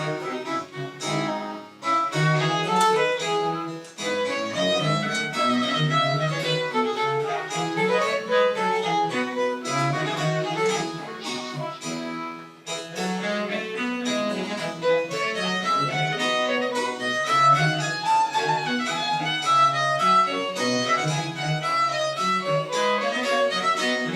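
Live chamber ensemble playing French Baroque music, led by violin with lower bowed strings beneath, in a busy passage of quick, changing notes.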